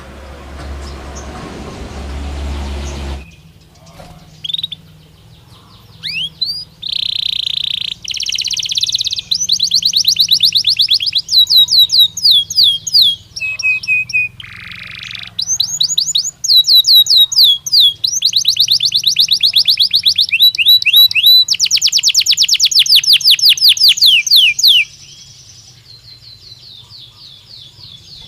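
Belgian canary singing a long song of fast trills and rolls, runs of quick repeated notes and sharply falling sweeps, with a softer trill near the end. It opens with about three seconds of rushing noise and a low rumble before the song starts.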